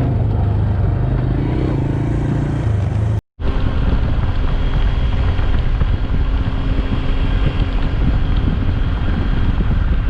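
A vehicle engine running steadily, heard in two clips joined by a cut about three seconds in; the second clip has a heavier low rumble.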